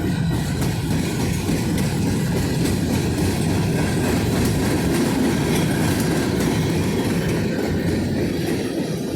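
Railroad cars of a freight grain train rolling past: a steady rumble of steel wheels on the rails with clickety-clack over the rail joints.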